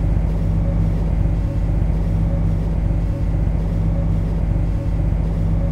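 Steady low electrical and mechanical hum of an MTR C-Train's equipment heard from the driving cab, with a soft low pulse about every one and a half seconds.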